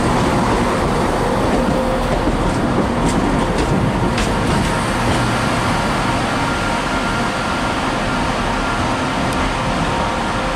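Train running through the station: a steady rumble and hum with a couple of faint clicks, slowly getting quieter.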